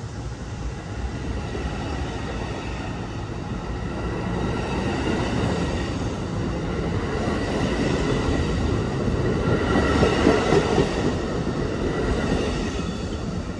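A train passing on the tracks, its wheel and rail noise growing louder to a peak about ten seconds in and then easing off, with a faint steady high tone over it.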